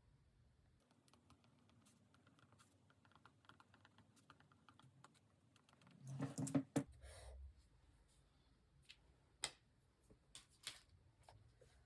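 Small taps and clicks of paper and stationery being handled on a desk, with a louder burst of handling about six seconds in and a few sharp separate clicks near the end.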